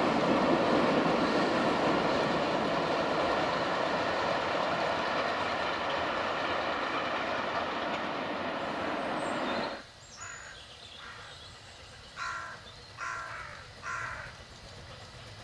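Narrow-gauge Ffestiniog Railway train running past with a steady rumble that slowly fades, then cuts off suddenly about ten seconds in. Near the end come three short, harsh, crow-like caws.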